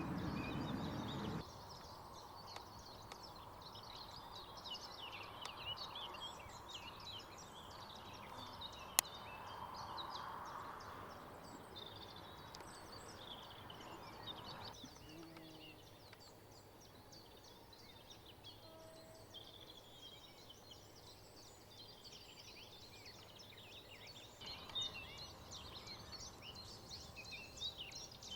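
Many small birds singing and chirping together over a faint steady background hum, with one sharp click about nine seconds in.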